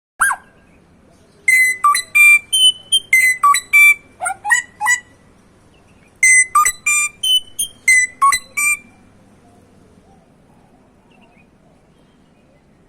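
A songbird, the one kept as a cage bird in Indonesia under the name samyong, singing two phrases of clear, loud whistled notes. Each note is short, some gliding up or down, and the phrases come a second or so apart. The bird falls silent after about nine seconds.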